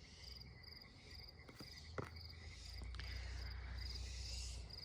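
Crickets chirping faintly in a steady, evenly repeating high-pitched rhythm, over a low hum, with a couple of small taps about two seconds in.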